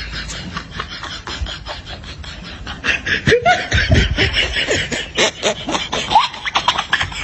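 Laughter sound effect: a burst of laughing starts about three seconds in and lasts about four seconds, over a rapid crackling rustle.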